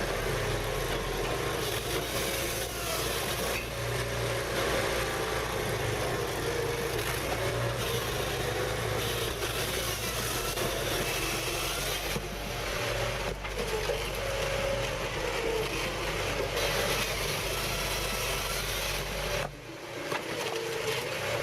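Mobile firewood processor running, its engine a steady drone with a wavering pitch. The sound changes abruptly about 12 seconds in and again about 19 seconds in.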